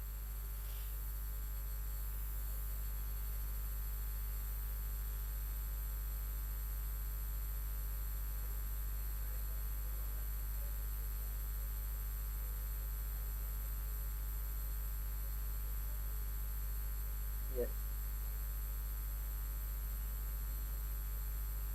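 Steady low electrical mains hum with no speech. A brief faint sound comes once, about three quarters of the way through.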